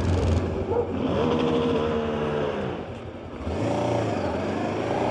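Voge 525 DSX's parallel-twin engine on its stock exhaust, pulling and easing off under the rider: the engine note rises and falls, drops back about three seconds in, then picks up again.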